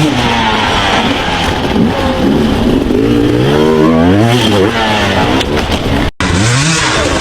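Dirt-bike engine revving hard, its pitch rising and falling over and over as the throttle is worked on a hill climb. The sound cuts out abruptly for an instant about six seconds in.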